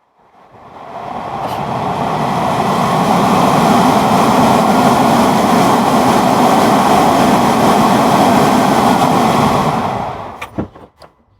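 Car HVAC blower motor and fan, out of the 2010 Audi A6 and wired to its control unit, spinning up over about two seconds, running steadily as an even rush of air, then winding down near the end, with a few light clicks after. It runs smoothly with no scraping or rattle: the fan is sound and needs no replacement.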